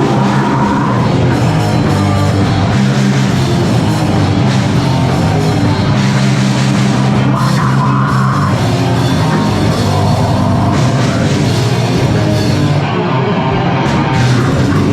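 A live band playing loud, heavy rock, with a pounding drum kit.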